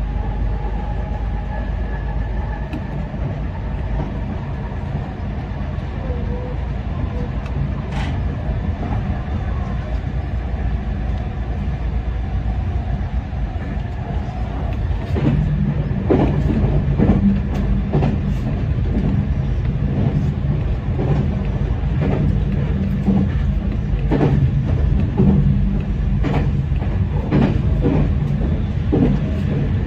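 Meitetsu 9500-series electric train running, heard from inside the driver's cab: a steady low rumble. About halfway through it grows louder and the wheels start clicking over the track in irregular pairs.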